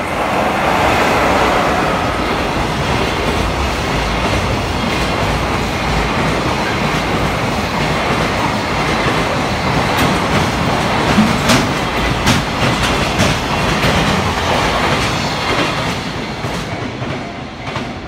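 JR Freight EF66 electric locomotive No. 27 hauling a container freight train past at speed: a steady loud rumble of steel wheels on rail, with sharp clicks from the wheels over rail joints as the wagons pass. It fades near the end as the last wagons go by.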